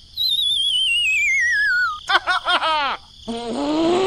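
Cartoon sound effects: a wobbling whistle sliding down in pitch for about two seconds, then a quick run of springy boings, then a short comic vocal sound that rises and falls near the end.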